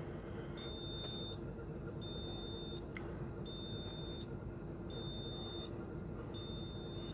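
Warning beeper of a diesel machine with the key on, waiting for the intake grid heater to cycle before a cold start. It gives a high, even beep about every second and a half, five times, over a faint steady hum.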